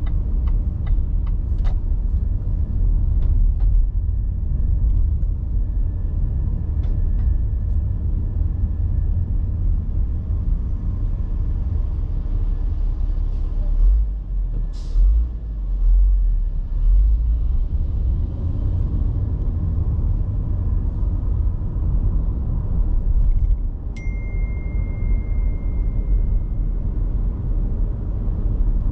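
Car driving in city traffic: a steady low road-and-engine rumble, with a few scattered clicks, heavier low thumps about halfway through, and a single steady high beep lasting a few seconds near the end.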